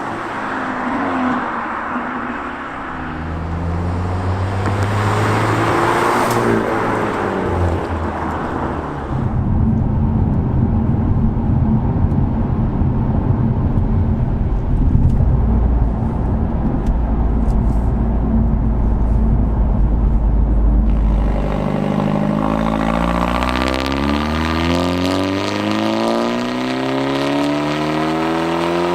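Hyundai Elantra N's turbocharged 2.0-litre four-cylinder sounding through a STILLEN stainless-steel cat-back exhaust. There is a deep, steady rumble through the middle; about three quarters of the way in, the exhaust note climbs steadily in pitch as the engine pulls up through the revs.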